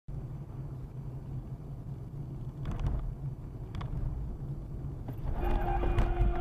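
Car driving with a steady low road and engine rumble and two short clicks midway; about a second before the end a steady car horn starts sounding.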